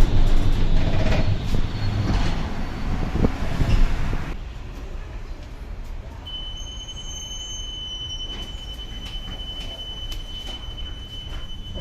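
Tram running over rough track, a loud low rumble from the wheels that drops off suddenly about four seconds in. The quieter running that follows carries a thin steady high whine starting about six seconds in, and a few clicks.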